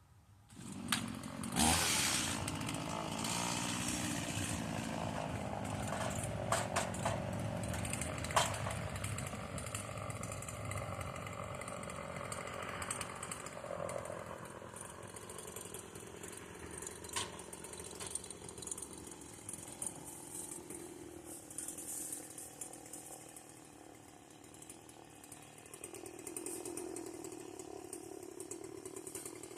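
Stihl chainsaw starting up about a second in and running, its speed and loudness changing as it works, with several sharp clicks in the first half. It drops back somewhat after about twenty seconds and picks up again near the end.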